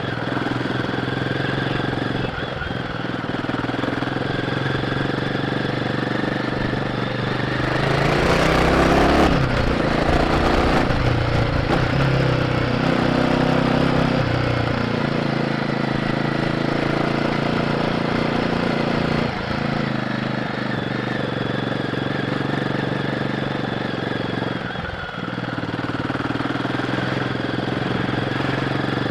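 Royal Enfield Guerrilla 450's single-cylinder engine running through its stock exhaust under way, the note shifting with throttle and gear changes. A louder, noisier surge comes about eight seconds in and eases off by about ten seconds.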